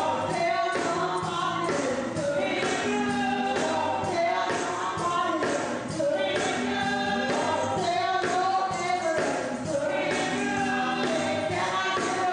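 Gospel music during a church service: voices singing over a band, with a steady percussive beat.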